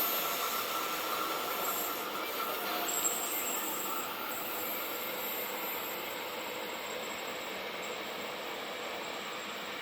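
Train rolling past on the rails, a steady rush with thin, high, held squeal tones from the wheels on the rails; the sound slowly fades.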